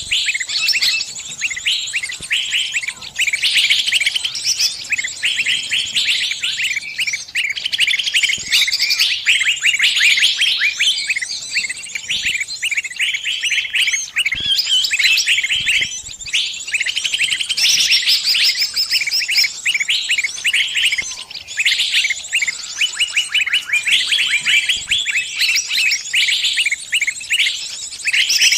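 Distress calls of a trapped small bird: dense, rapid high-pitched chirps and twitters with hardly a break.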